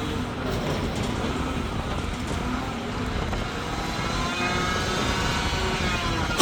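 Mack McNeilus front-loader garbage truck's diesel engine running as the truck drives by, a steady low rumble. About four seconds in, a faint whine comes in over it.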